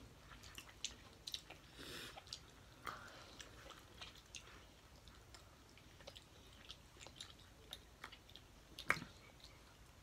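Quiet chewing and biting of corn on the cob, with scattered small clicks and crunches and one sharper click about nine seconds in.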